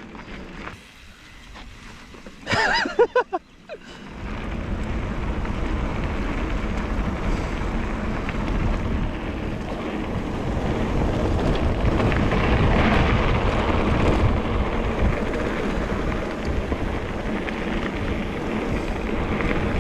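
Wind buffeting the camera microphone with a steady rumble of mountain bike tyres on a dirt trail, starting about four seconds in as the bike picks up speed on a descent. Just before that, a short shout.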